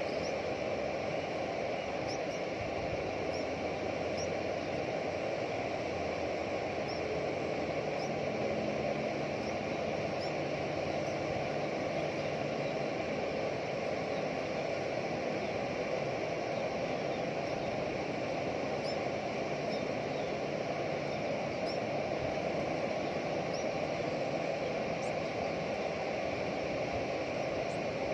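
Steady outdoor background noise at an even level, with faint, very short high-pitched chirps scattered through it.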